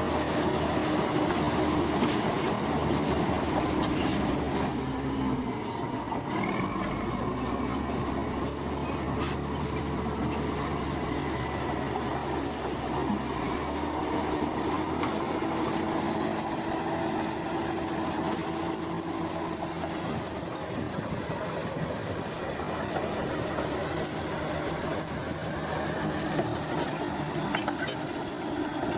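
Komatsu crawler bulldozer working: a steady diesel engine with its steel tracks squealing and clanking.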